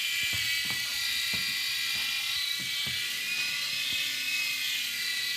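Small electric RC toy helicopter in flight, its motors and rotors giving a steady high-pitched whine with faint ticks underneath.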